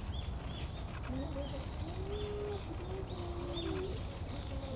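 Small songbirds give short high chirps several times over a steady high-pitched insect trill.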